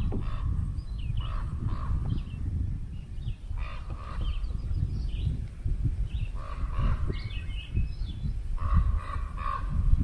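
Birds calling in short bouts every two to three seconds, over a steady low rumble.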